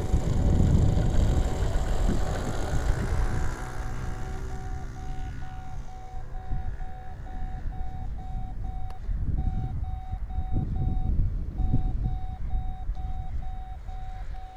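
Strong wind buffeting the microphone, with the motor of a radio-controlled Katana model plane whining and gliding in pitch over the first few seconds, then fading. A steady beeping tone sounds throughout.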